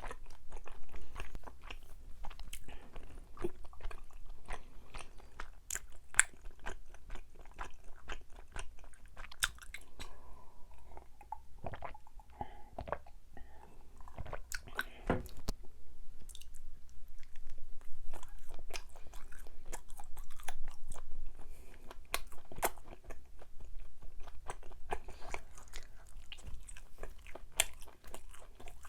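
Close-miked chewing of chewy Korean rice cakes (tteok): a steady run of wet mouth clicks, smacks and bites.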